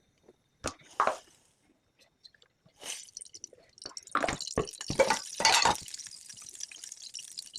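Kitchen work sounds: a few clicks and knocks of utensils, then from about four seconds in a steady hiss with several sharp knocks over it.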